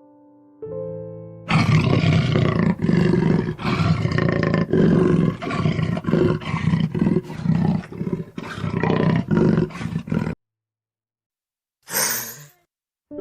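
A big cat roaring: a long, loud run of deep pulses in quick succession that breaks off abruptly, followed after a pause by one short harsh burst.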